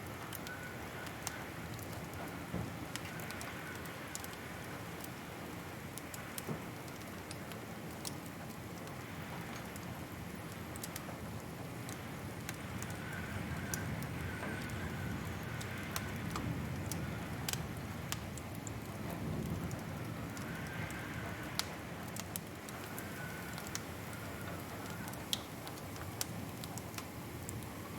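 Wood fire crackling in a fireplace: irregular sharp pops and snaps over a steady hiss and low rumble of the flames, the rumble swelling a little in the middle.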